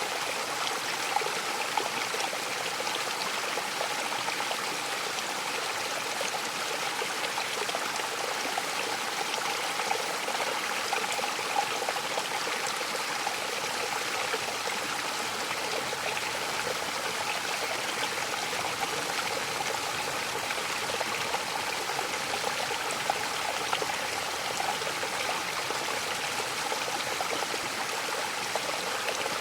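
Mountain waterfall splashing and streaming steadily, a continuous rush of falling water with small splashes flickering through it.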